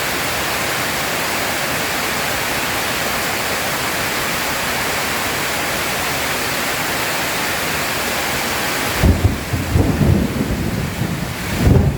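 Steady, even rain hiss, then about nine seconds in, thunder breaks in as a loud, uneven deep rumble that swells again near the end while the rain's hiss thins.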